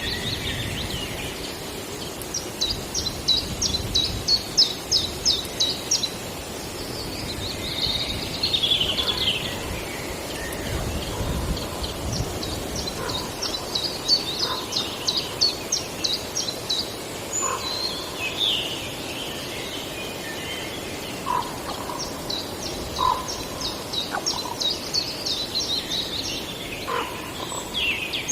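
Forest songbirds singing. One bird repeats a quick run of high, evenly spaced notes lasting three to four seconds, three times. Other birds add shorter song phrases and chirps in between.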